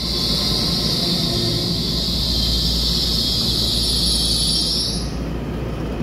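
An EMU3000 electric train standing at the platform, with a steady, high-pitched hiss over a low rumble. The hiss stops suddenly about five seconds in.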